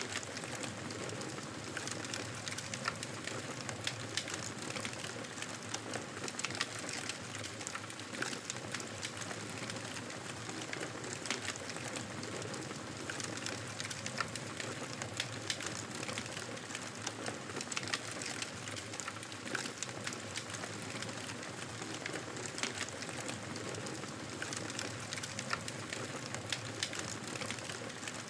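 Campfire burning with a steady hiss and frequent small crackles and pops from the wood.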